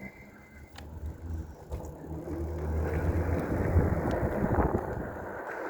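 Wind rushing over the mic of a camera mounted on a moving electric bike, building to a steady low rumble from about halfway through, with a light click near the start.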